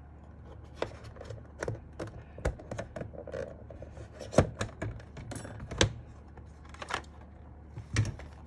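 Sharp plastic clicks and knocks at irregular intervals as a pry tool is slid along the seam of a Sky87 mechanical keyboard's case, popping the clips between the top and bottom case apart. The loudest click comes about four and a half seconds in.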